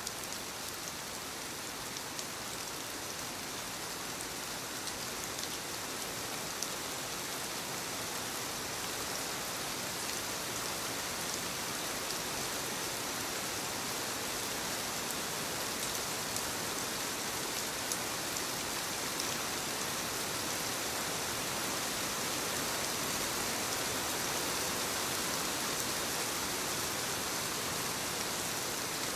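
Soft rain falling steadily on leaves, a continuous patter with scattered individual drop ticks, growing slightly louder over the stretch.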